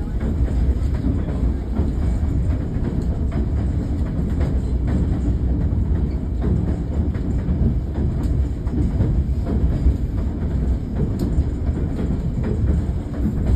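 Steady rumble of a White Pass & Yukon Route passenger coach rolling along the track, heard from inside the car, with scattered light clicks and rattles from the wheels and car body.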